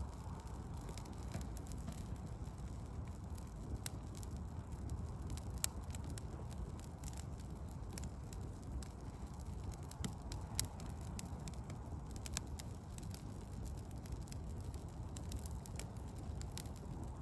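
Wood fire crackling, with scattered sharp pops, the loudest about a third of the way in and again past the middle, over a steady low rumble of city traffic.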